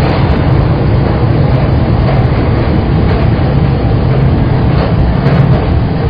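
Saikyō Line commuter rapid electric train running at speed, heard from inside a passenger car: a steady, loud rumble of wheels on rail with motor and car noise.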